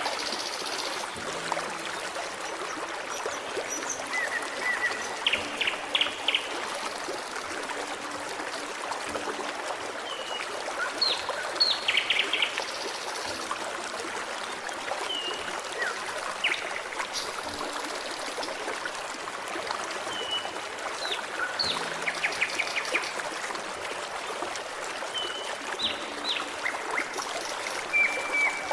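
Forest stream trickling and babbling steadily, with small birds calling over it in short quick trills and brief slurred whistled notes every few seconds.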